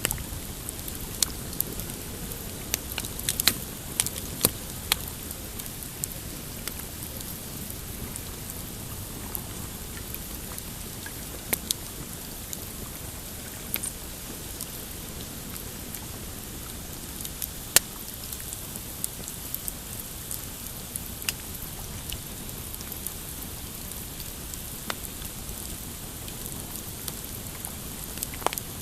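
Pine campfire crackling, with irregular sharp pops and snaps, a few louder ones about three to five seconds in, over a low steady wash of small waves lapping on a rocky shore.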